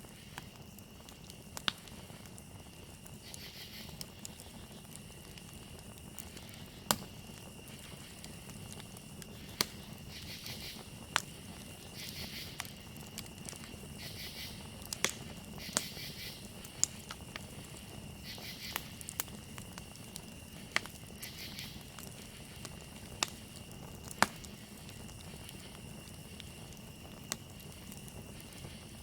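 Campfire crackling, with sharp pops every second or two over a low steady rumble. Crickets keep up a steady high trill throughout, and bursts of louder, rapidly pulsed insect chirping come and go.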